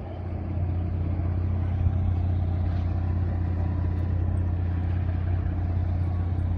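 A car engine idling steadily, a constant low hum.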